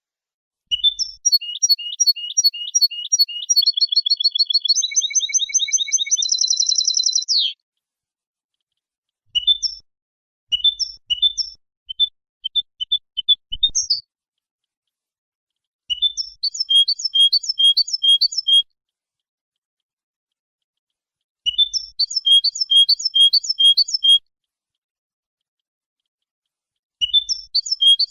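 European goldfinch song: phrases of quick, repeated high chirping notes lasting a few seconds each, separated by clean silences. The first phrase is longer and ends in a fast trill; the later phrases are short and near-identical, repeated three times.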